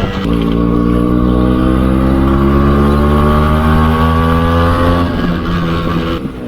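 Yamaha RX 135's two-stroke single-cylinder engine pulling under throttle, its pitch rising steadily for about five seconds, then dropping off near the end.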